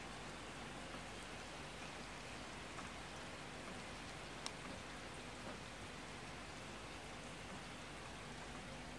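Steady rain falling, with a single sharp click about halfway through.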